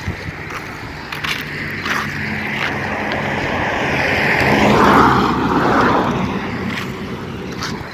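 A motor vehicle passes by, its engine and road noise growing louder to a peak about five seconds in, then fading away.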